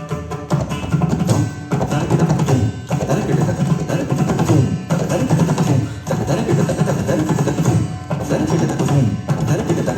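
Carnatic hand-drum percussion playing a fast, dense rhythm of rapid strokes with deep drum tones.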